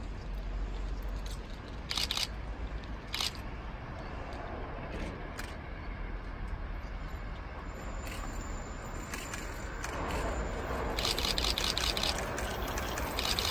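Steady outdoor background noise with a low rumble and two sharp clicks about two and three seconds in. From about ten seconds in, a louder rushing hiss with rapid crackling builds as a freight train approaches along the line.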